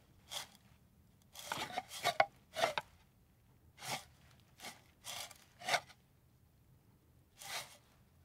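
A turtle crawling over dry dirt and leaf litter: a series of short, irregular scrapes and rustles from its feet and shell.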